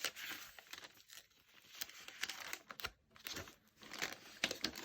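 Paper rustling and crinkling with a few light clicks as the pages, postcards and tucked-in papers of a handmade junk journal are turned and handled.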